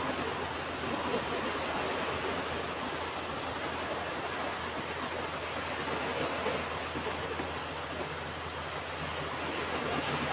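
Ocean surf washing onto a beach: a steady rush of breaking waves that swells gently a little past halfway and again near the end.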